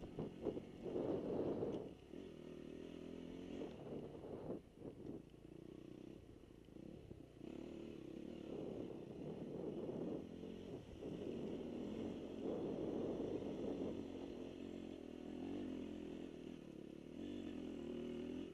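Dirt bike engine running, its revs rising and falling with the throttle.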